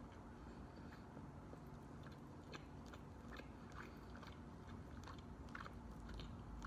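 Faint chewing of a mouthful of rotisserie chicken, with soft, irregular mouth clicks.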